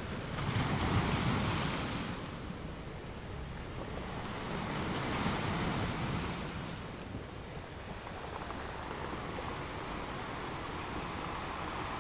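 Sea waves washing in, a steady rush that swells twice, about a second in and again around five seconds.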